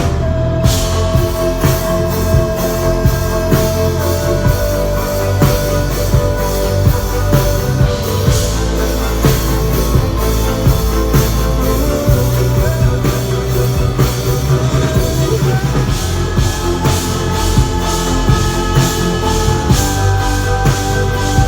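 Loud instrumental break of a pop song played live, with a steady drum-kit beat under sustained held melody notes.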